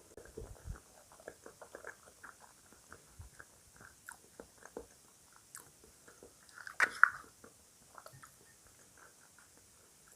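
Close-miked chewing of crunchy cereal: a string of short, irregular crunches, several a second, with one louder burst about seven seconds in.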